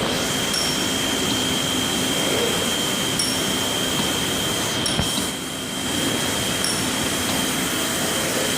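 CNC glass cutting machine running: a steady rushing noise with a constant high-pitched whine over a low hum, and a few short high chirps every couple of seconds.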